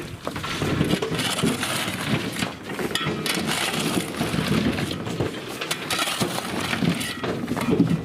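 Ballast stone being dumped from a railway work train's wagons, a continuous irregular clattering and rattling of falling rock.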